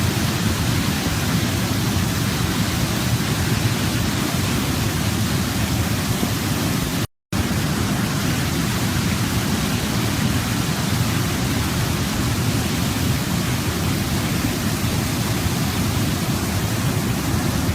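Waterfall: a steady, even rush of falling water, heaviest in the low range. It cuts out completely for a fraction of a second about seven seconds in, then resumes unchanged.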